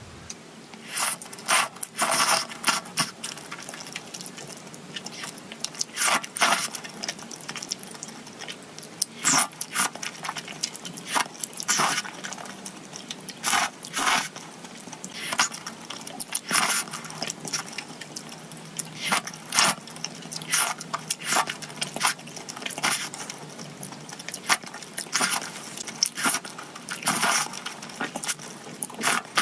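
Close-miked eating: irregular short crunches and wet smacks of biting and chewing food.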